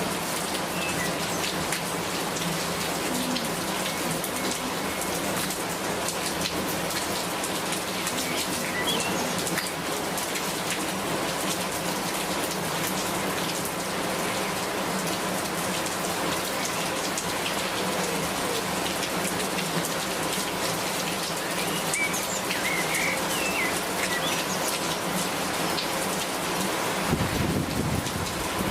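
Steady rain falling on a hard surface, a dense even patter of drops. A few faint chirps come through about a third of the way in and again past the middle, and a brief low rumble sounds near the end.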